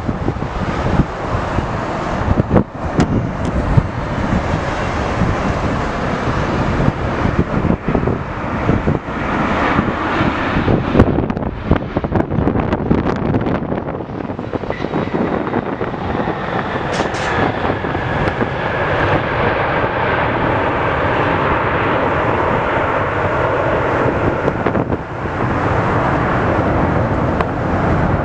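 Gusty wind buffeting the microphone, with a landing jet airliner's engines running underneath. From about halfway through the gusts ease and the jet's steady whine, with a few held high tones, takes over.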